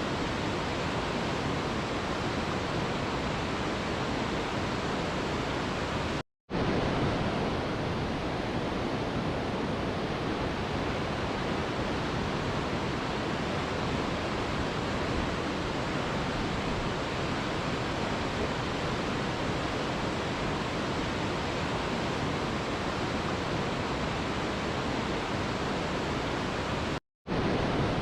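Steady, even rushing of a waterfall, with no changes in pitch or rhythm. It cuts out to silence for a split second twice, about six seconds in and again near the end.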